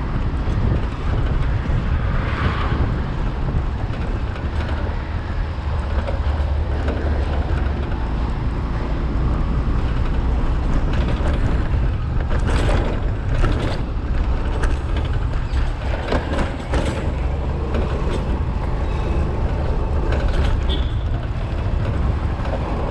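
Riding a Suzuki Access 125 scooter through city traffic: steady low rumble of wind and engine on the action camera's microphone, with several short sharp traffic noises around the middle.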